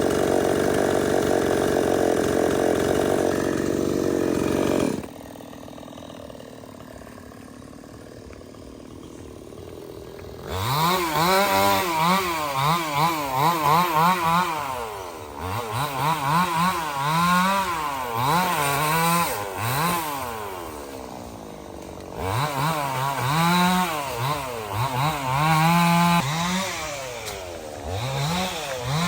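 Stihl 070 two-stroke chainsaw running steadily at high revs, dropping to idle about five seconds in. From about ten seconds on it is revved up and down again and again in short throttle bursts.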